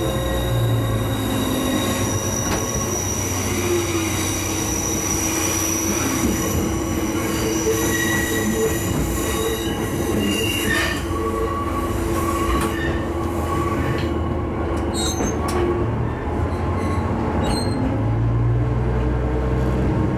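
Diesel railcar running along the line, with steady high-pitched wheel squeal held over the running noise, and a few sharp clicks in the last few seconds.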